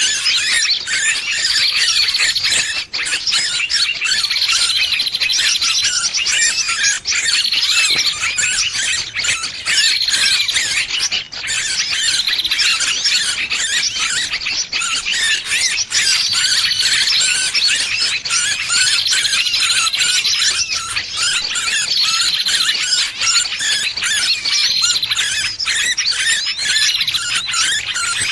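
Distress cries of a trapped small bird, used as a bird-trapping lure call: a dense, unbroken stream of rapid, high-pitched squealing chatter, with a louder call phrase every two to three seconds.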